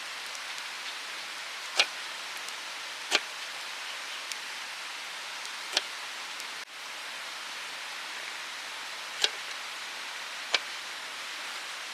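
Steady rushing of a mountain stream, broken by five sharp pops spread through it; the rushing drops out for an instant a little past halfway.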